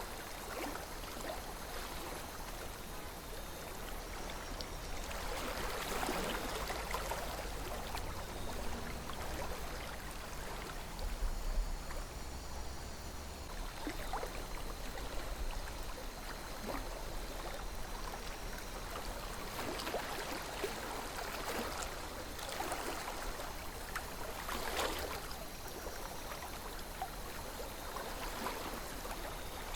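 Calm river water flowing, a steady rush that swells a little louder a few times.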